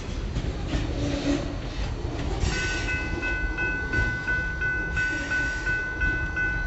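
Kiamichi Railroad freight train's cars rolling past on the rails, a steady rumble with wheel noise. About two and a half seconds in, a high electronic ringing starts and pulses about three times a second.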